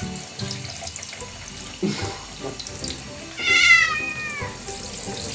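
Shower spray running over a wet British Shorthair cat. About three and a half seconds in, the cat gives one meow that drops in pitch at the end.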